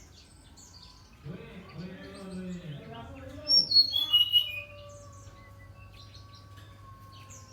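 Brown-chested jungle flycatcher singing: a quick run of clear notes stepping down in pitch about three and a half seconds in, the loudest sound.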